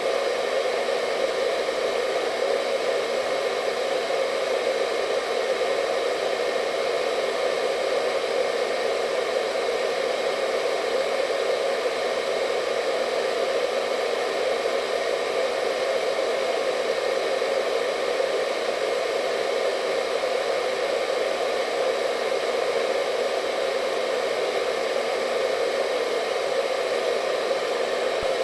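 Hair dryer running steadily: an even, unbroken rushing hum, strongest in the low-middle range, with a faint steady whine above it.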